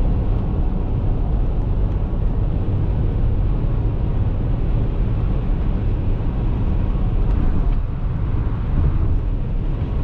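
Steady rumble of a vehicle driving along a snowy highway: constant tyre and engine noise with no change in speed.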